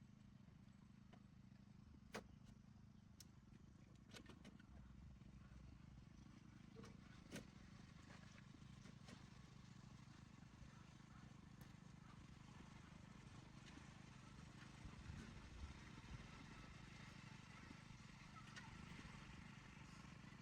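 Near silence: faint low background hum with a few faint clicks.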